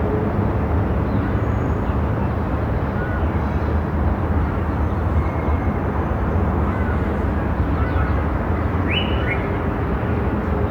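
Steady low rumble and hum of a moving car, even in level throughout, with a faint pair of quick bird chirps about nine seconds in.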